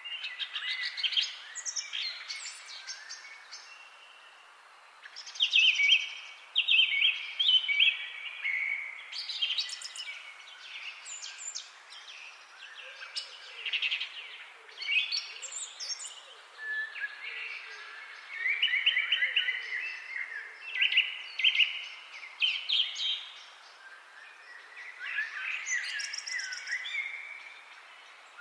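Several songbirds chirping and trilling, with overlapping short phrases coming in clusters and a brief lull a few seconds in.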